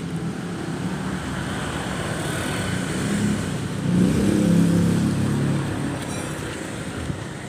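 Car engine running, growing louder about four seconds in and fading again.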